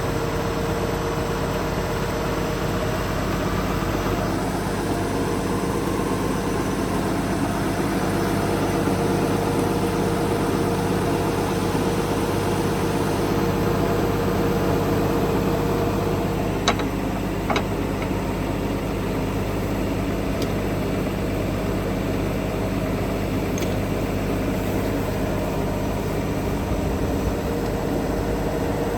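Tractor engine idling steadily, with two sharp clicks a little under a second apart about halfway through.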